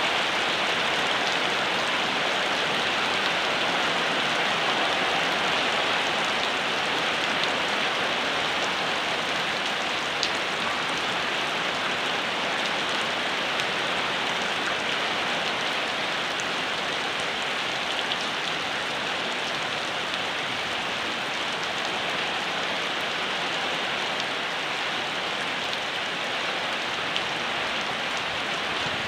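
Steady rain falling, an even hiss with a few faint ticks of individual drops.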